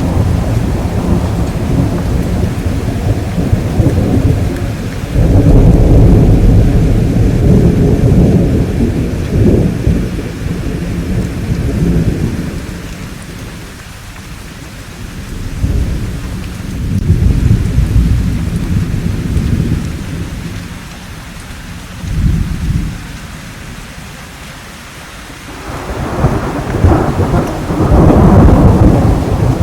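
Thunderstorm: steady rainfall under repeated low rolling thunder, with loud rumbles swelling and fading several times and a quieter stretch of mostly rain midway before the thunder builds again near the end.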